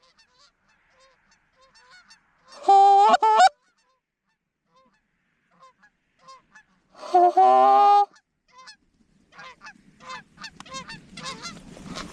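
Canada geese honking: scattered faint honks, two loud close calls around three and seven seconds in, and many honks in quick succession building toward the end as a flock calls.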